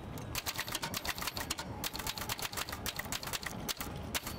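Typewriter keys clacking in quick, uneven runs of strokes as text is typed.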